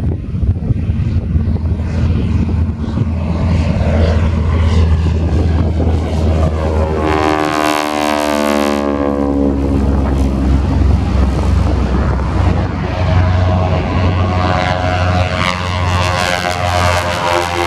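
World War II piston-engined propeller airplane running at full power on its takeoff run and climb-out, a steady engine drone with a sweeping, phasing change in tone as it passes.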